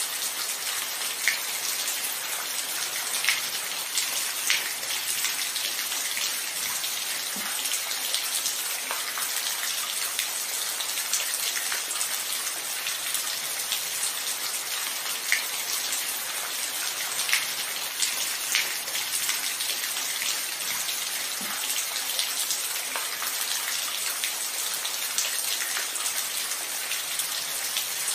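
Steady rain: an even hiss of falling rain, with scattered individual drops ticking and pinging close by every second or two.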